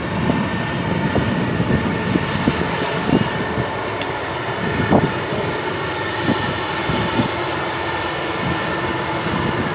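Jet aircraft engines running steadily: an even rushing noise with faint steady tones, and irregular low thumps over the top.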